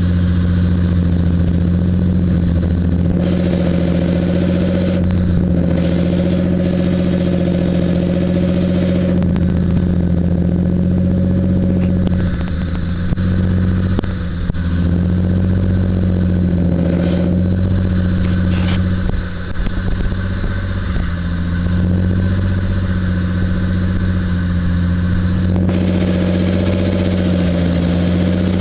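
Lakes modified race car engine idling steadily as it warms up from a cold start, with a couple of brief dips in level about halfway through.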